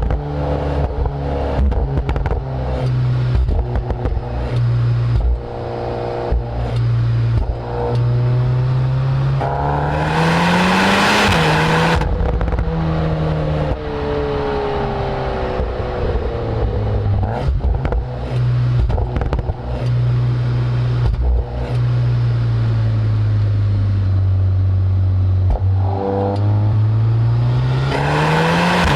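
Volkswagen Golf R 8.5's turbocharged 2.0-litre four-cylinder heard at its Akrapovič tailpipes while driving. The engine note wanders with the throttle, then rises hard for about three seconds near the middle and cuts off sharply, and climbs again near the end.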